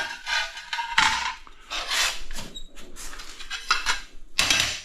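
Edge of a ceramic tile hole being ground by hand with a broken piece of tile, to enlarge the hole slightly: a series of separate scraping strokes, about one a second.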